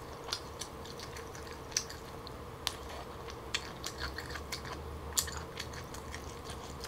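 Close-up mouth sounds of eating smoked turkey leg meat: chewing, with irregular wet clicks and smacks scattered throughout. A sharper click comes about five seconds in, as the drumstick is raised for another bite.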